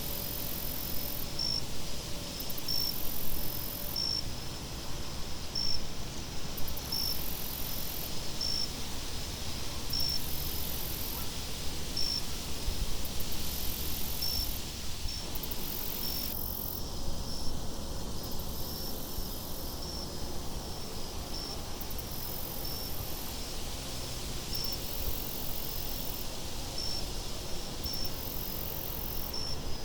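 Crickets chirping at a slow, even pace, with a higher insect trill that comes and goes every second or two, over a steady low wind rumble.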